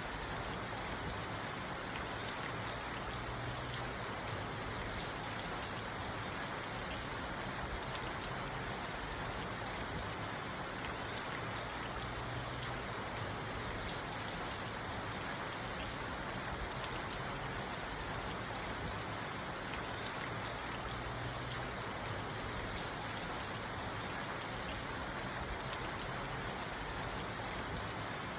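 Steady rain falling on a car's roof and windows, heard from inside the car: an even, unbroken patter with no separate events.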